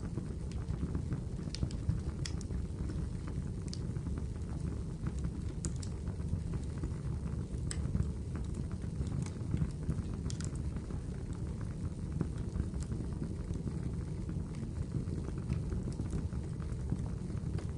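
Wood fire crackling in a fireplace: a steady low rumble of burning with scattered sharp pops and snaps.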